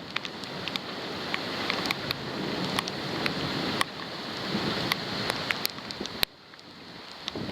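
Rain and wind on a waterproof camera in a thunderstorm: a steady rush of noise with many sharp taps of raindrops striking the camera. A little after six seconds it drops off suddenly, then builds again.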